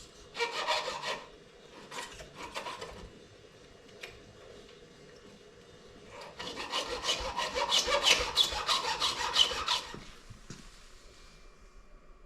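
A file stroking across the rakers (depth gauges) of a Stihl MS 462 C chainsaw chain, lowering them so the chain takes a bigger bite. A few short strokes come in the first three seconds, then a pause, then a fast run of strokes lasting about three and a half seconds.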